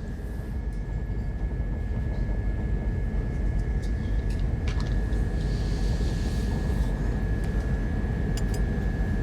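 A low, steady rumbling drone with a thin, steady high tone held over it, from the film's sound design.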